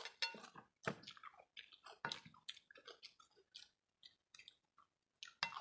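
Close-up chewing and wet mouth smacks of people eating rice and curry, a string of short irregular smacks and clicks with brief pauses between.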